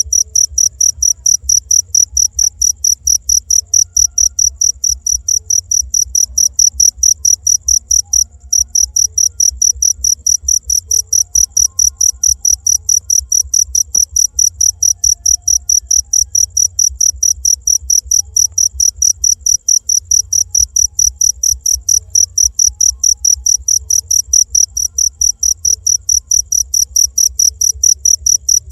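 Cricket chirping in a fast, even rhythm of high chirps, several a second, over a low steady hum; the chirping breaks off for a moment about eight seconds in.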